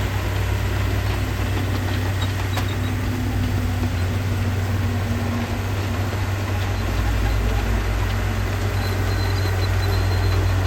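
Diesel engine of heavy earthmoving machinery running steadily with a deep, even hum. The low rumble gets heavier about seven seconds in.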